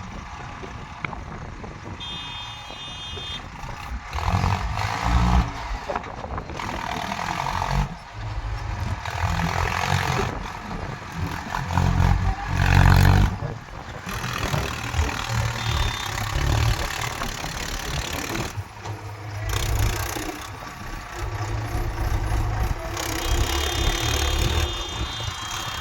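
Heavy diesel engines of a farm tractor and earth-moving machinery running and revving in uneven bursts, cut together from several shots. A high steady tone sounds briefly near the start and again near the end.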